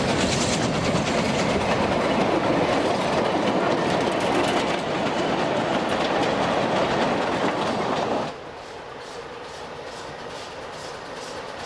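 Narrow-gauge train running, with wheels clattering over the rail joints. About eight seconds in the noise drops suddenly to a fainter clatter.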